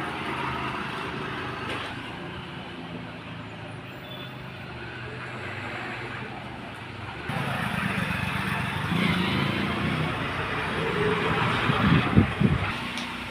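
Road traffic noise with vehicles running past. It gets louder suddenly about seven seconds in, with a few short loud peaks near the end.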